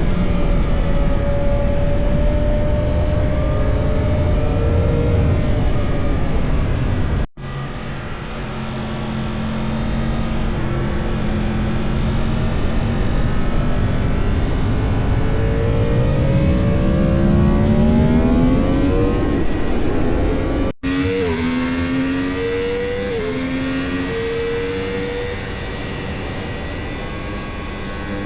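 A motorcycle engine at speed on a race track, its pitch climbing and dropping as it accelerates and shifts through the gears, over a heavy rushing noise. The sound breaks off abruptly twice and picks up again at a different point.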